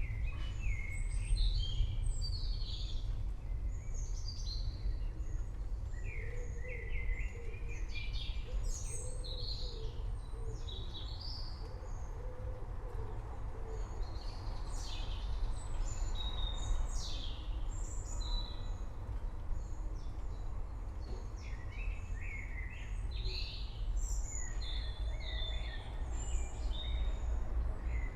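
Many forest birds chirping and singing in short overlapping trills and calls, over a steady low rumble.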